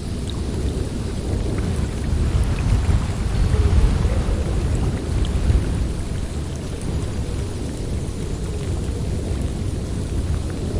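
Snowstorm wind blowing in deep, steady gusts that swell louder for a few seconds near the middle.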